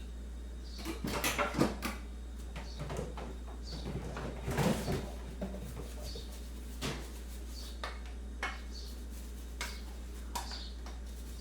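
Crockery and cutlery clinking and clattering: a busy run of knocks and clinks about a second in and again around four and a half seconds in, then single clinks every second or so, over a steady low hum.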